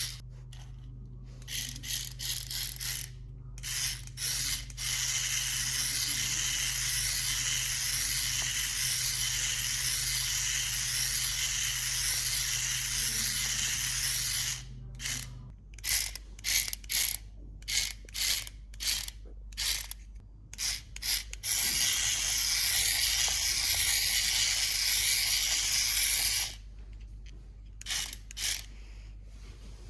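Small electric motor and gears of a remote-control toy whirring with a high hiss, run in long stretches and switched on and off in quick short bursts between them.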